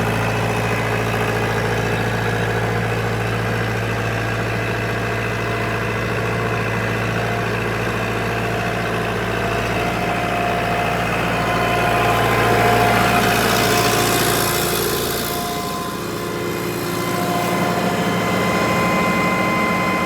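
Kubota M105S tractor's diesel engine running steadily at idle. From about twelve to fifteen seconds in, a hiss swells and fades over the engine. Around sixteen seconds in the deep low hum drops away and the engine note changes.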